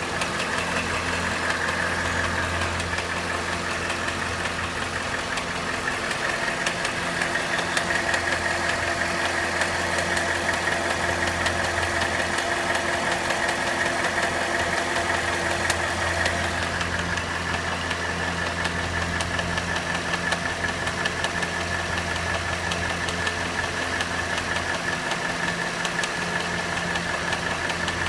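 Cadillac Northstar 4.6-litre V8 idling steadily while hot, with a faint click heard here and there: the intermittent clicking that shows up only when the engine is hot.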